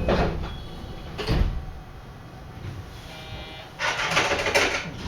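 The sliding passenger doors of a 223 series electric train closing: a short burst of noise, a sharp thump about a second in, then a longer hiss near the end, typical of the air-operated door gear.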